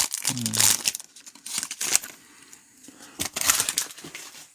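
Trading card pack wrappers being torn open and crinkled by hand, in three separate bursts of rustling.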